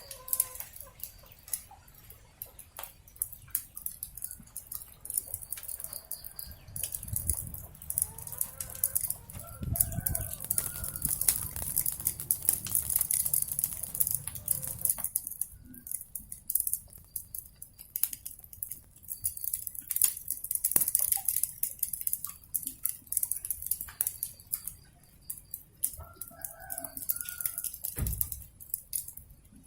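Wood fire crackling and popping with a steady hiss, while a rooster calls twice: once about a third of the way in and again near the end.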